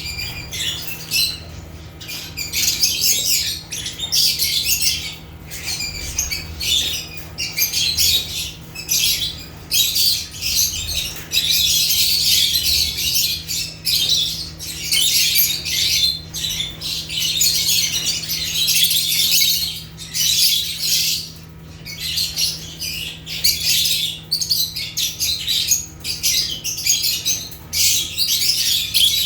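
A group of lovebirds (Agapornis) chattering and squawking in shrill, nearly continuous chirps with brief pauses, over a faint steady low hum.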